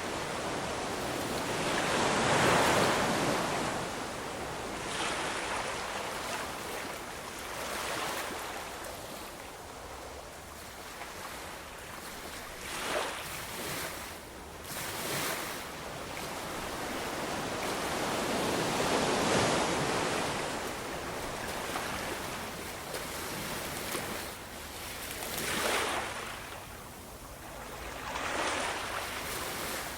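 Ocean surf: waves breaking and washing up in a continuous rushing hiss that swells and ebbs. The biggest breakers come a couple of seconds in, about two-thirds of the way through and near the end, with smaller washes between.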